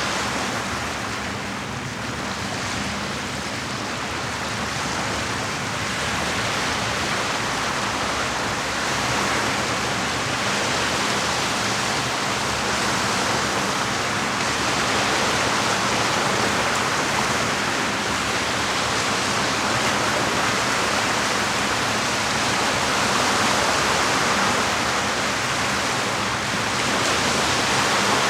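Steady rushing of lake water washing against the shore, swelling and easing slightly in level.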